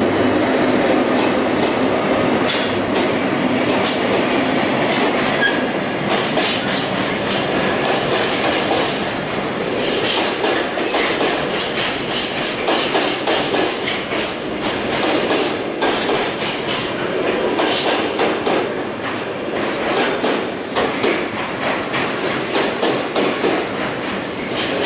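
Container freight train passing close by: a continuous rumble of wagons with many rapid clicks of wheels running over rail joints.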